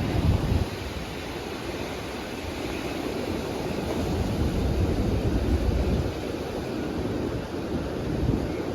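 Wind buffeting the microphone in an uneven low rumble, over the steady wash of ocean surf.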